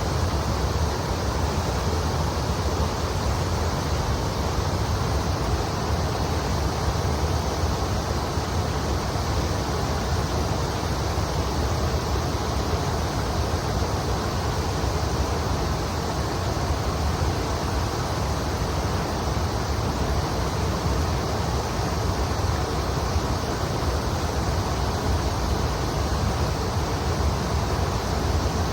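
Kamo River water flowing and rushing steadily.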